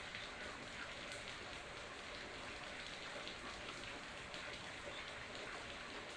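Steady rain falling, an even hiss flecked with many small, scattered drop ticks.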